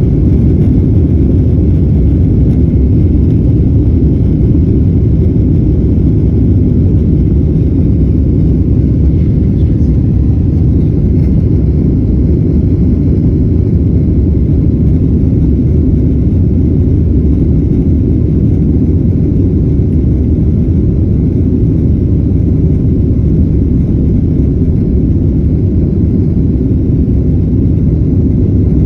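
Boeing 767 takeoff heard from inside the cabin: the jet engines and rushing air make a loud, steady low rumble.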